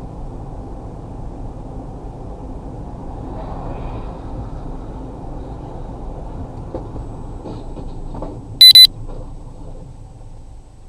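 Steady low rumble of a vehicle driving, road and engine noise. Near the end a very loud, high-pitched electronic-sounding beep sounds twice in quick succession.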